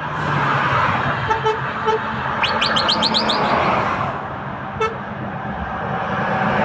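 Truck-mounted Turkish whistle horn sounding over steady truck engine and traffic noise. It gives a few short toots, then a quick run of about seven rising whistles, and one more short toot near the end.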